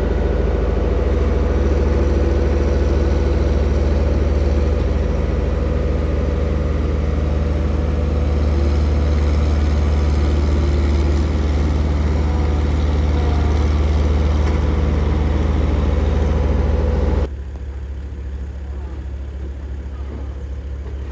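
Heavy diesel engine running steadily with a low, even drone. About seventeen seconds in, the sound drops abruptly to a quieter engine hum.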